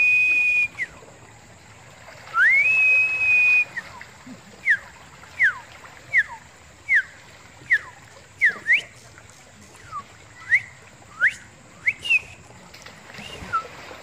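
A bird whistling: two long clear whistles that rise and then hold one pitch, followed by a run of short, downward-sliding whistled notes repeated a little faster than once a second. Faint lapping of shallow seawater among rocks underneath.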